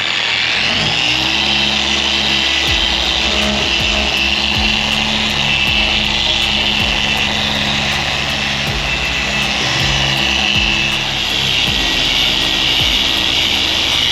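Electric paint polisher buffing, spinning up as it starts and then running steadily with a high whine. Background music plays underneath.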